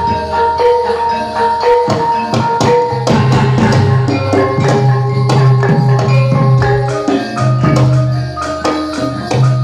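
Gamelan music accompanying a jathilan dance: struck metallophones ringing sustained notes over drums keeping a busy, steady rhythm.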